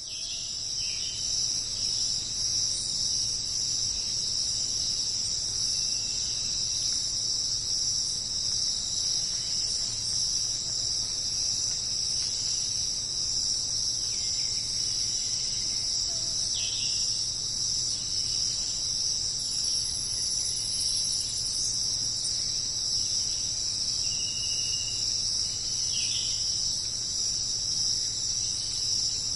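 A steady, dense, high-pitched chorus of insects, with a few short, fainter calls lower down now and then.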